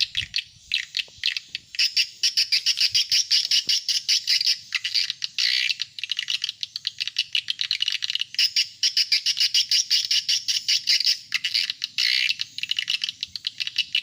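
Swiftlet lure call, a recording of swiftlet chirps made to draw adult birds to a nest house: a dense, continuous stream of rapid, high chirps and twitters.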